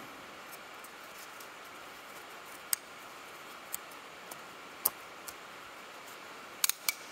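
Small sharp clicks and taps of hands working the plastic oil filter housing of a Volvo D5 diesel while fitting its new O-ring: a few scattered clicks, then a quick run of three near the end, over a faint steady hiss.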